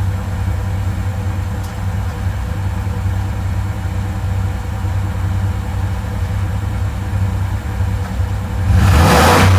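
Stock-exhaust 2002 Dodge Ram 2500's 5.9-litre Magnum V8 idling with a steady low rumble, then revved sharply near the end.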